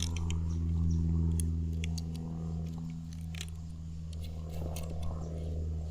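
Fly-fishing rod and reel being handled and fitted together, making scattered small clicks and rubs over a steady low hum.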